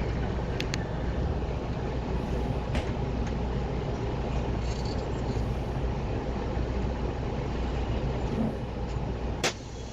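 Steady road and engine rumble of a moving vehicle, with a few light clicks and a sharp knock near the end.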